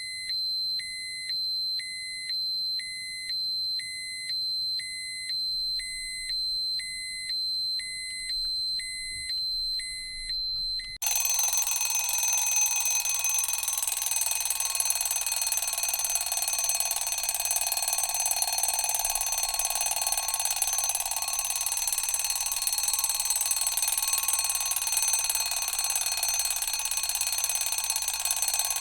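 Electronic dosimeter alarm: a steady high whine with a short beep repeating about once a second. About eleven seconds in it cuts abruptly to a mechanical alarm clock's bell ringing continuously, louder and dense with high ringing tones.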